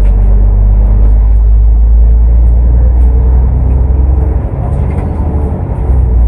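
Cummins ISL8.9 six-cylinder diesel engine of an ADL Enviro500 MMC double-decker bus running under way. It eases off about four and a half seconds in and picks up again near the end.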